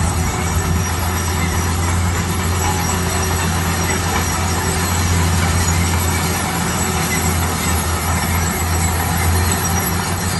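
Heavy road-construction machinery running steadily: a constant low engine drone under a broad, even rumble.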